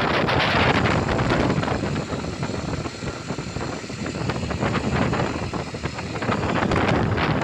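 Wind rushing over the microphone of a moving motorcycle, a loud steady noise with road and engine noise beneath it. It eases a little a couple of seconds in, then builds again.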